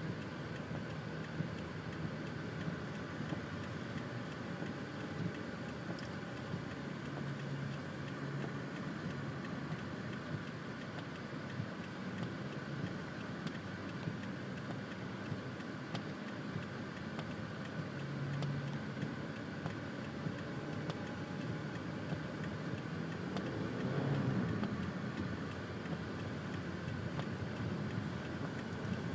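Car engine and road noise heard from inside the cabin while driving, steady, with a brief rise and fall in engine pitch about five seconds before the end.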